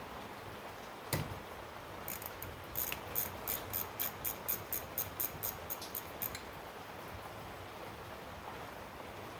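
One knock about a second in, then a run of small sharp clicks, about four a second, lasting some four seconds, over a steady hiss: hand work on a carburetor's small parts during its teardown.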